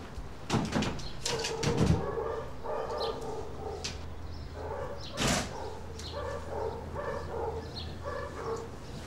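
Birds calling: a low call repeated over and over, with a few sharp knocks or rustles, the loudest about five seconds in.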